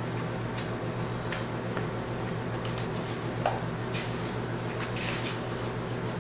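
Soft clicks and rustles of a book and its packaging being handled over a steady low hum.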